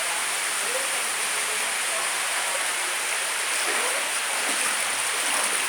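Steady rushing hiss of water, heavy rain or running floodwater, with no break or change.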